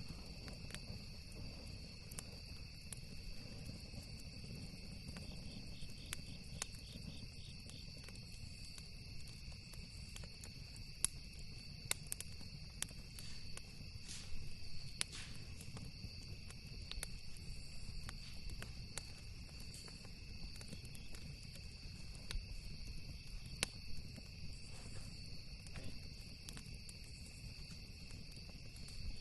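Campfire crackling, with scattered sharp pops (a few louder ones about 11, 12, 15 and 24 seconds in), over a steady high chirring of crickets.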